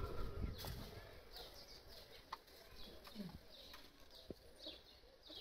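Birds calling: many short, high chirps, with a few sharp clicks, and a low rumble in the first second.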